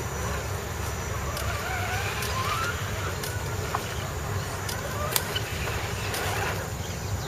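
Electric motor of a radio-controlled off-road truck whining, its pitch rising and falling with the throttle, over a steady low rumble and a few sharp clicks.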